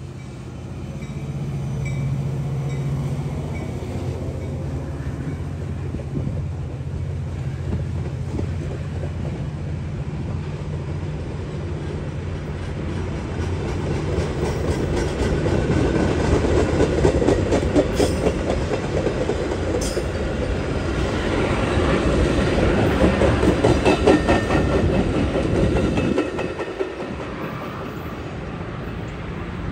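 Metra diesel commuter train passing close by: a steady locomotive engine hum at first, then steel wheels clickety-clacking over rail joints under the bilevel coaches, growing louder as the cars go by. The clatter drops off suddenly near the end as the last car passes.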